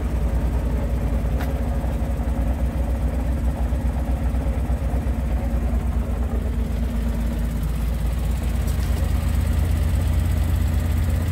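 Morris Minor 1000 van's 1098 cc A-series four-cylinder engine idling steadily, growing a little louder near the end.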